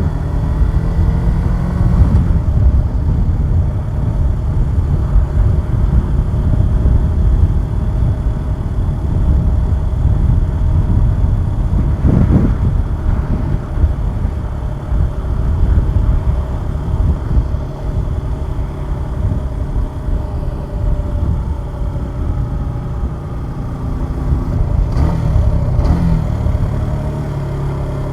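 Suzuki Gixxer 150SF single-cylinder motorcycle engine running under way, heard over low wind rumble on the microphone. The engine note falls in the first couple of seconds as the bike slows, then varies with throttle and settles to a steadier, lower note near the end.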